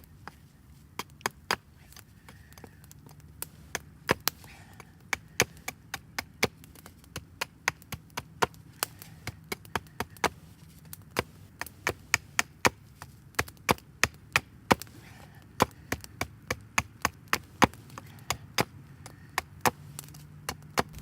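Chopping a wooden branch with a blade: a long run of sharp, separate strikes, about two to three a second.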